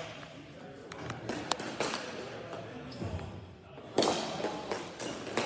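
Ball hockey play: sharp clacks of sticks striking the ball, with a louder bang about four seconds in, over faint voices of players.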